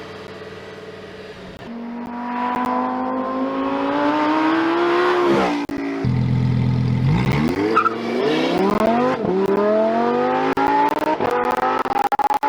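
Lamborghini Huracán Tecnica's naturally aspirated V10 accelerating hard, its pitch climbing steadily. Midway it drops sharply at a gear change, then climbs again.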